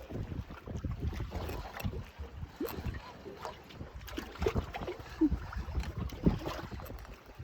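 Wind buffeting the microphone on a small fishing boat, an uneven low rumble, with a few light knocks scattered through it.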